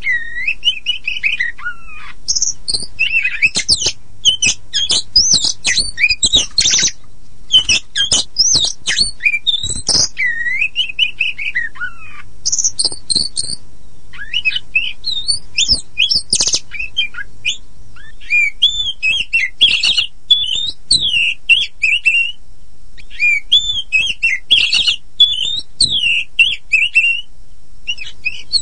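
Oriental magpie-robin of the white-bellied 'kacer poci' form singing a long, varied song. It mixes loud slurred whistles that rise and fall with rapid runs of sharp clicking notes, broken by brief pauses. A faint steady hum lies underneath.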